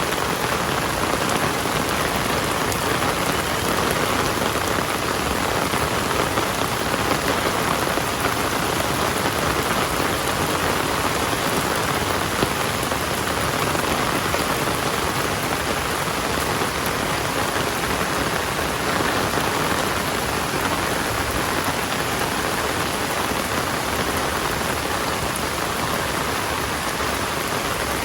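Heavy rain falling steadily, a continuous dense hiss of drops on surfaces.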